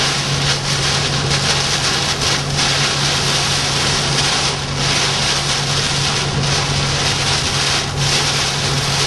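Steady noise of a moving vehicle heard from inside: a constant rush of road and wind noise over a low, steady engine drone.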